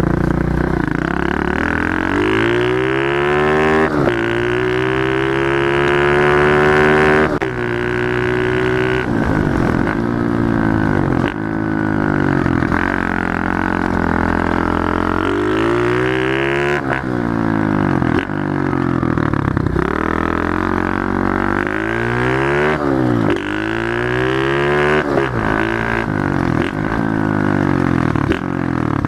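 Pit bike engine being ridden hard: its pitch climbs under throttle and drops sharply again and again as the rider shifts gear and backs off.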